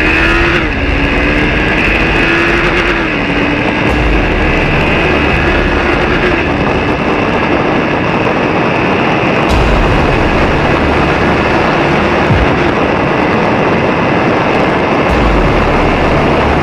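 Sport motorcycle engine running at speed, its pitch rising and falling over the first few seconds, under a steady loud rush of noise.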